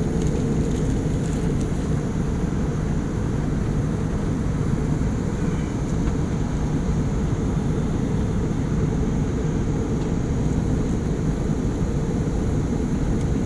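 Steady cabin noise of an airliner in cruise flight: an even, unbroken roar, heaviest in the low end, with a faint steady hum.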